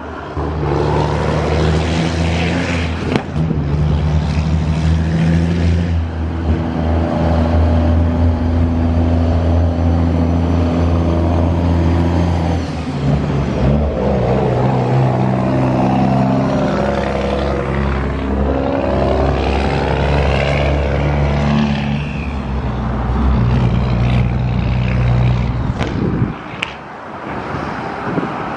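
Propeller engines of Diamond DA40 light aircraft flying past: a steady engine drone whose pitch drops about halfway through as they pass, with a sweeping whoosh as they go over, easing off near the end.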